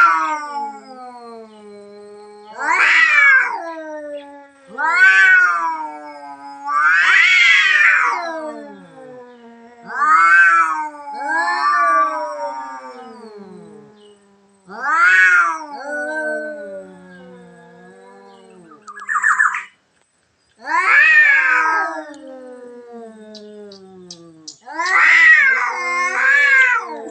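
Tomcat caterwauling: a series of long, rising-and-falling yowls, about one every two to three seconds, with a low drawn-out moan carrying on between them.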